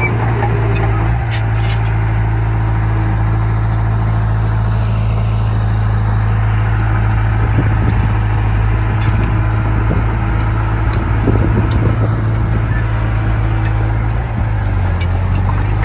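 Komatsu D31P bulldozer's diesel engine running steadily at a constant pitch, with scattered metallic clanks.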